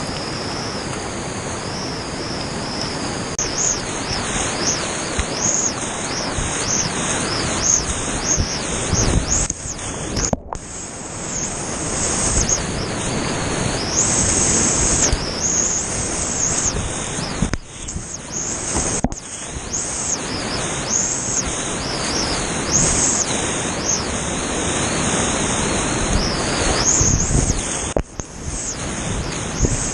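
Whitewater of a steep creek rushing and splashing around a kayak, a continuous loud noise of moving water. The sound drops away sharply for a moment several times, about ten, eighteen and twenty-eight seconds in.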